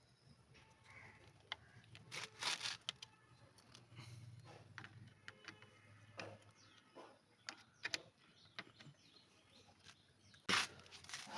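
Faint, scattered clicks and knocks of hand tools on motorcycle exhaust bolts and nuts, with a couple of short scraping bursts.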